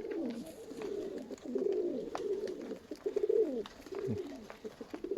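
Several Nikolaev pigeons cooing at once, their low, wavering coos overlapping continuously, with a few faint clicks among them.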